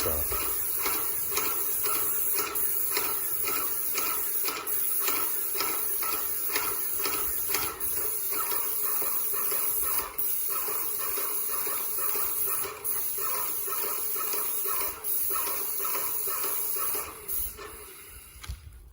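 Paint sprayer spraying paint through a fine tip: a steady hiss with regular pump ticks several times a second. It cuts off near the end.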